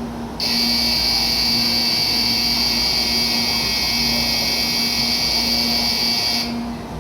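Electronic departure bell on a Shinkansen platform ringing steadily for about six seconds. It starts abruptly just after the beginning and cuts off sharply near the end, signalling that the train is about to leave. A steady low hum runs underneath.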